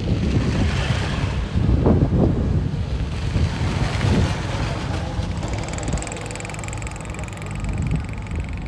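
Diesel engine of heavy earthmoving equipment running under load, with wind buffeting the microphone. A thin high whine comes in about halfway through.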